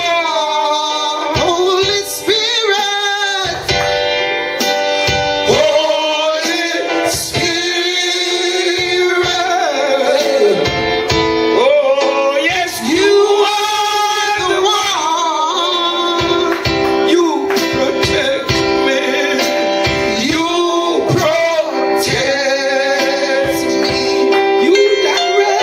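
Gospel worship singing with instrumental backing: voices hold and slide between long, wavering notes over steady sustained chords.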